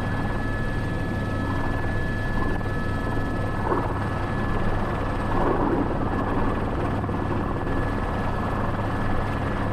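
Airbus H125 helicopter's single turbine engine and rotor running steadily, with a thin high whine over the rotor noise, heard from the cockpit while it hovers with a sling load just hooked on.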